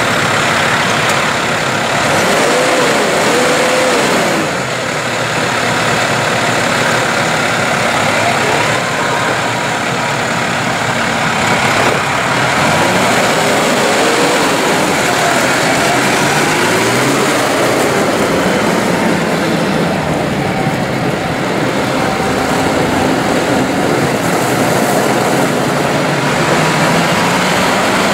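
New Holland PowerStar 120's four-cylinder turbo diesel engine running, its pitch rising and falling in places.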